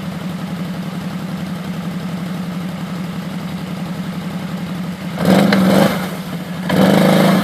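A tracked ATV's engine idling steadily, then revved hard twice near the end as the stuck quad is driven in reverse to back out of a hole in the snow.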